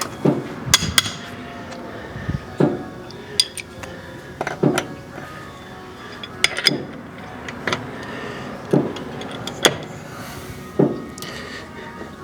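Repeated metal-on-metal knocks and clangs at irregular intervals, about a dozen, some ringing: hand tools working on a stuck, stripped lug nut, most likely hammer strikes.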